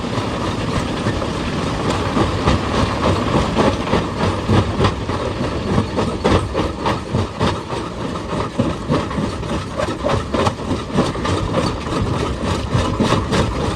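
Heavy excavator working on rock: a steady engine rumble with many quick, irregular clanks and knocks throughout.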